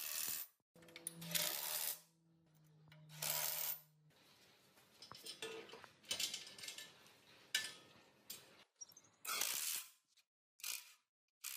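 A series of short, abruptly cut bursts of metal workshop noise: clinking and scraping of metal parts, with a low steady hum for a few seconds about a second in.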